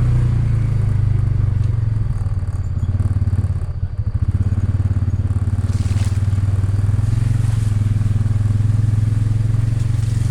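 ATV engine running steadily, its note dipping briefly about four seconds in.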